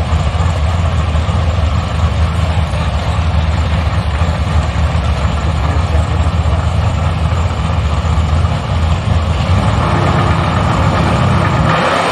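Engine idling steadily at a drag strip, a loud low rumble. Shortly before the end the idle gives way suddenly to a higher, rising engine note.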